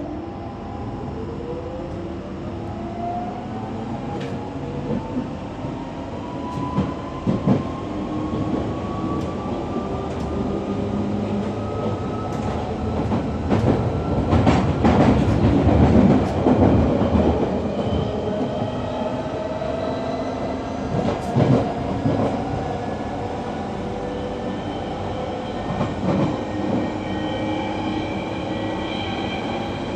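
London Underground Central line train accelerating: the traction motors give a whine that rises in pitch over the first several seconds, then holds steadier. Wheel-on-rail rumble and clatter run underneath, loudest about halfway through.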